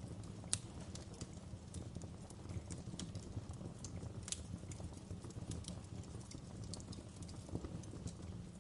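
Wood burning in a fireplace, crackling: irregular sharp pops and snaps over a steady low rumble, with two louder snaps, one about half a second in and one just past four seconds.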